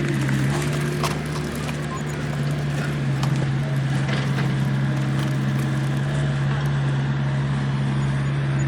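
A heavy engine running steadily at a low, even speed, with scattered clicks and knocks of work going on over it.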